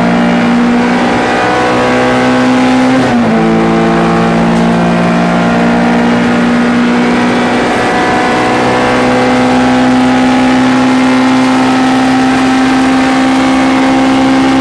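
MG ZR 105 race car's 1.4-litre four-cylinder engine pulling hard under load. The revs dip sharply once about three seconds in with a gear change, then climb slowly and steadily.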